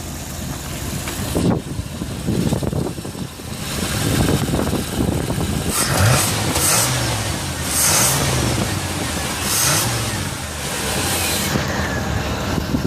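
Art car's engine running loudly with a low rumble, its note rising and falling as it is revved through the middle stretch.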